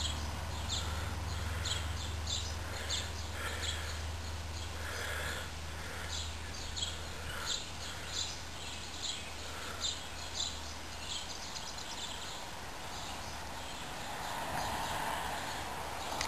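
Outdoor ambience with small birds chirping repeatedly and irregularly over a steady low hum that fades out about eleven seconds in.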